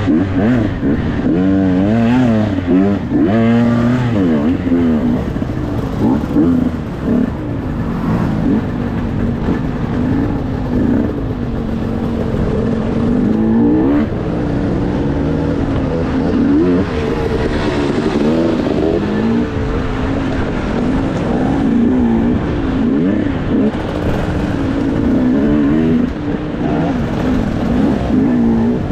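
Dirt bike engine running under load, its pitch climbing and dropping again and again as the throttle is opened and closed.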